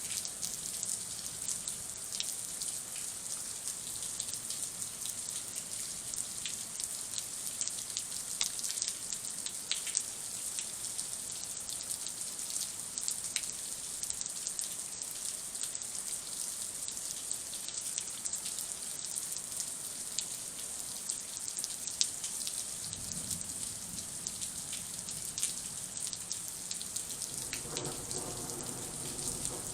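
Heavy rain falling steadily, with individual drops ticking close by. A low rumble of thunder builds over the last several seconds.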